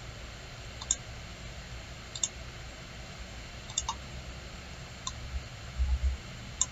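Computer mouse clicking: scattered single and double clicks every second or so, over a faint steady hiss, with a few soft low thumps near the end.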